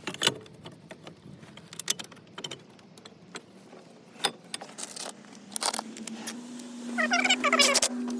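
Metal tools and brake parts clinking and rattling as they are handled during a brake job. A low steady hum comes in past the middle, and a louder wavering sound follows near the end.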